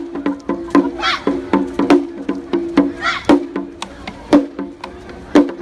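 Shishimai lion-dance festival music: sharp percussion strikes about two a second over a steady held tone, with a few short high up-and-down calls now and then.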